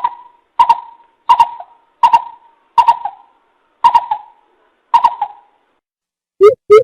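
Coucal (bìm bịp) calling, recorded as a trapping lure: about seven sharp, separate notes spaced well under a second apart, then near the end a quicker run of deeper hoots begins.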